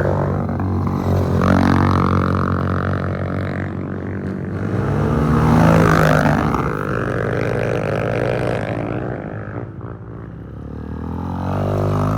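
Trail motorcycles riding past one after another, their engines revving and the pitch rising and falling as each bike passes. The sound is loudest about six seconds in and dips near ten seconds.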